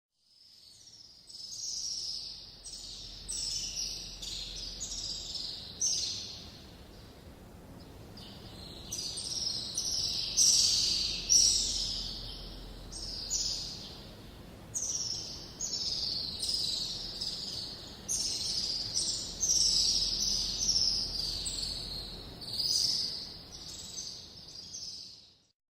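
Jungle ambience dominated by birds calling over and over: short, high calls that fall in pitch, coming in quick runs with a brief lull partway through, over a faint low rumble.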